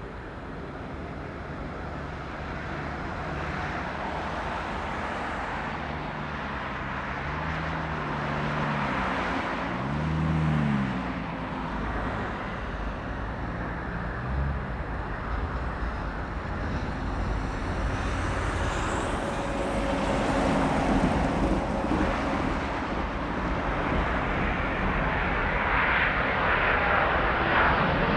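Jet airliner's engines, a broad rushing noise that grows steadily louder as the aircraft approaches, with a higher whine coming in near the end.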